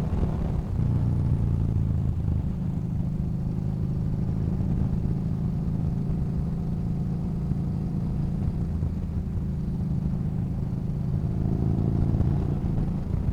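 Yamaha Bolt's air-cooled 942 cc V-twin running steadily under way, its note picking up a little near the end.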